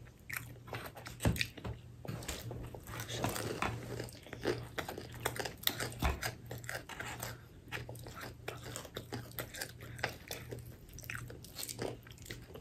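Close-up eating sounds of fried chicken: chewing and crunching, with many small crackles and clicks as the breaded crust is pulled apart by hand. A faint low hum runs underneath.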